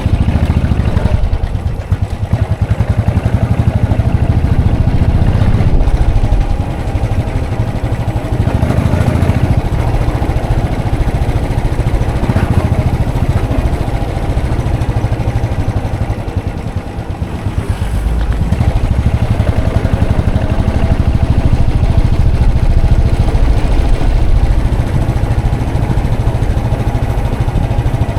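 Royal Enfield Classic 500's air-cooled single-cylinder engine running steadily, its loudness dipping twice and recovering.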